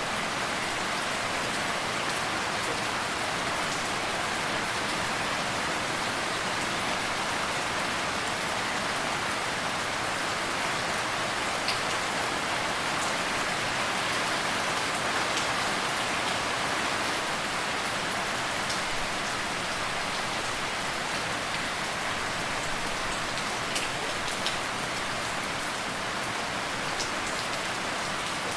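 Steady rain falling on a surface, an even hiss with occasional sharper drops.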